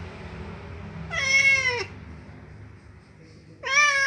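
Domestic cat meowing twice, each meow short and sliding down in pitch at the end, the second starting near the end; it is crying to be let in through a door.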